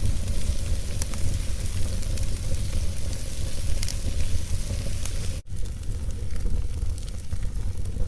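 Wood fire crackling and hissing in a fireplace over a steady low rumble, with a few faint pops. The sound cuts out for an instant about five and a half seconds in.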